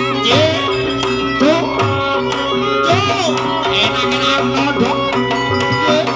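Live Javanese jaranan ensemble music: hand-drum strokes, some bending in pitch, over steady ringing gong and metallophone tones.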